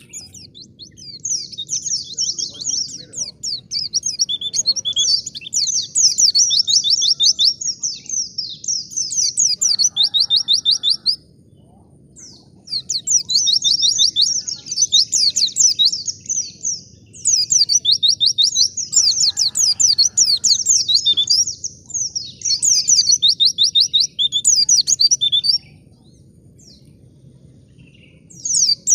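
White-eye (pleci) singing: long bouts of fast, high twittering song, broken by two pauses of a few seconds, about 11 seconds in and again near the end.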